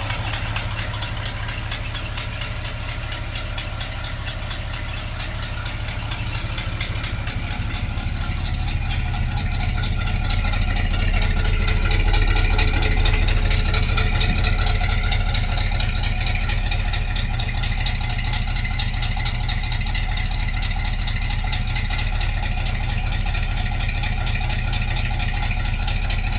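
1972 Chevrolet Cheyenne pickup's Quadrajet-carbureted engine idling steadily after a cold start, getting a little louder about ten seconds in. It has a little manifold leak.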